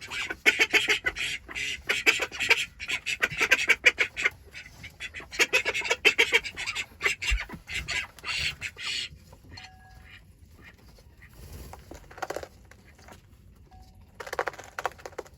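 Hens clucking in a dense run of rapid calls for about nine seconds, then quieter, with two short bursts of clucking near the end.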